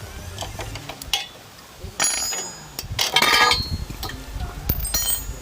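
Metal exhaust parts and hand tools clinking and clanking as they are handled, with louder ringing metallic clanks about two seconds and three seconds in.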